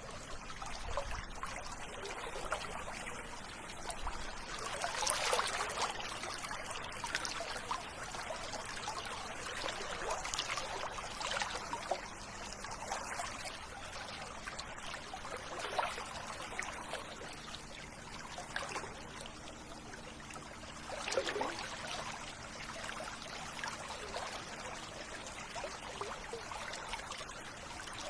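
River water flowing and splashing steadily, with uneven louder surges.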